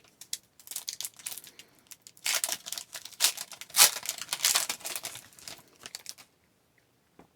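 Crinkling and tearing of a hockey card pack wrapper being torn open: a run of crackly rustles that is loudest in the middle and stops about six seconds in.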